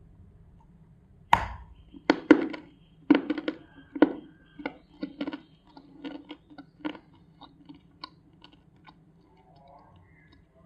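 Dry multani mitti (Fuller's earth clay) being crunched: a sharp snap about a second in, then a run of crisp crunches that grow fainter into small crackles.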